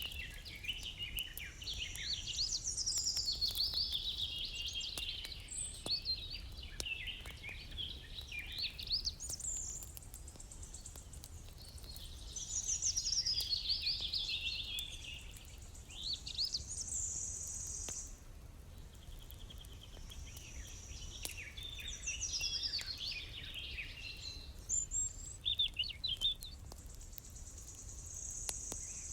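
Songbirds singing in repeated twittering, warbling phrases with short pauses between them, and a high, steady trill returning several times, over a low background rumble.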